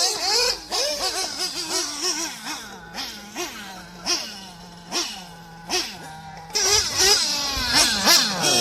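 Small nitro engine of a 1/8-scale RC buggy being blipped, its pitch jumping up and falling back about once a second. Near the end it runs louder at higher revs.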